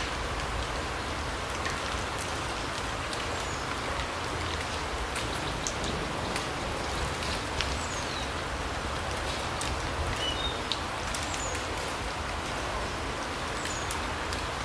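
Forest ambience: a steady rushing hiss with scattered light ticks like drips, and a few short, high bird chirps.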